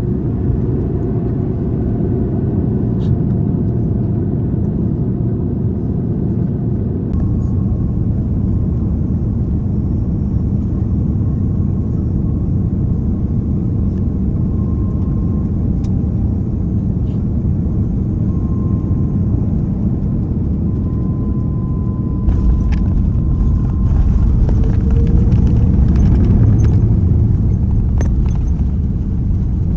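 Airbus A330 jet airliner cabin noise in flight: a loud, steady low rumble of engines and airflow, which grows louder about 22 seconds in, with a few light clicks.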